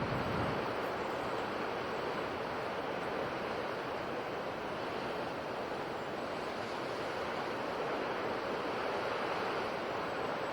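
Ocean surf washing on the shore: a steady, continuous rush of breaking waves with little rise and fall.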